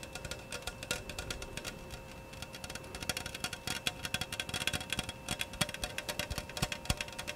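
Fast, irregular fingertip tapping on a hard object, many light taps a second, with a few louder taps in the second half.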